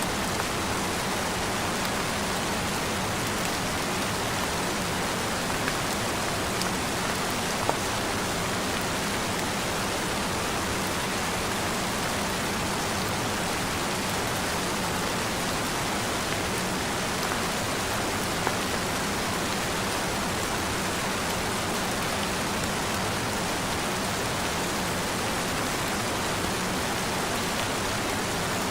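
Steady rain falling, an even hiss of many drops with an occasional louder drop.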